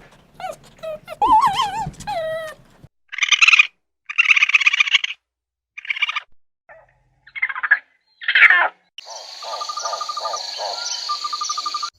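A string of short animal calls in quick succession: wavering chirps, then harsh squawking bursts, then a steady chattering in the last few seconds.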